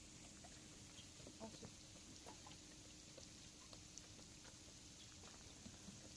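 Near silence: faint background tone with a few small, scattered clicks.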